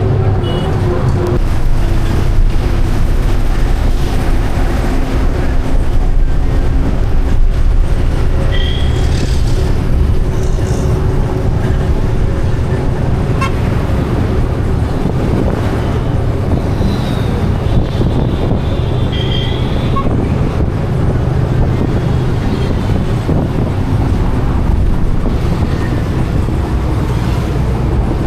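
Steady rumble of a vehicle running, heard from close by, with a few low steady engine tones. Two brief high-pitched tones cut in twice, once about a third of the way through and again about two-thirds through.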